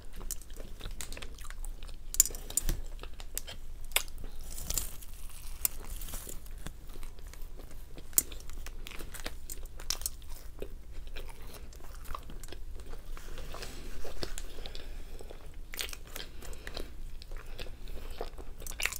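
A person chewing and biting French fries, with many short, scattered crunches.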